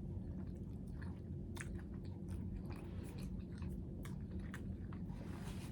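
A person chewing a mouthful of food, with scattered small wet clicks from the mouth, over a faint steady low hum.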